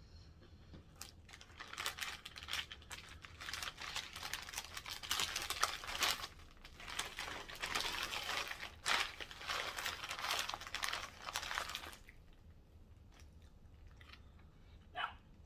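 Close-up mukbang eating sounds: dense crinkling and crunching of a Subway sandwich and its paper wrapper, starting about a second in and stopping sharply a few seconds before the end.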